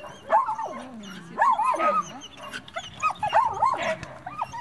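A dog barking and yipping in about three short bouts of high, pitched barks.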